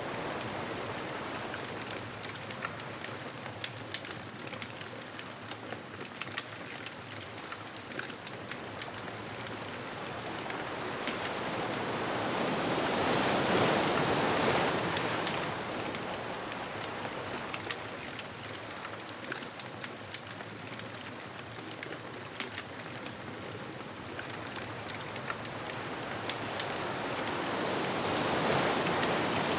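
Ocean waves breaking and washing up the beach, swelling twice, about halfway through and near the end, over the crackle and pop of a beach bonfire.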